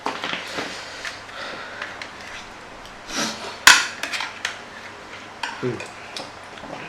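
Cutlery clicking and scraping against a tray of food in irregular short clicks, with one sharp clack about three and a half seconds in.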